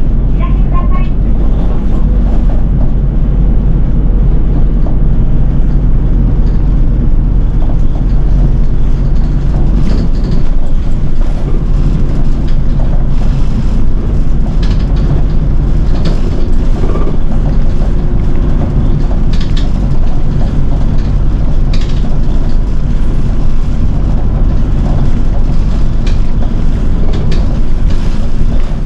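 City bus running along the road: a steady low engine rumble with road noise heard from the front of the bus.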